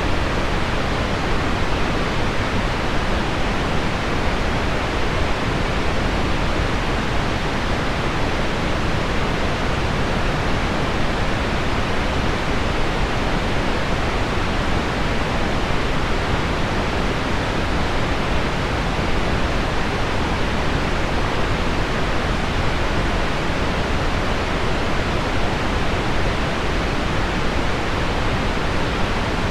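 Heavy rain on window glass blended with pink noise: an even, steady hiss with no separate drop impacts standing out.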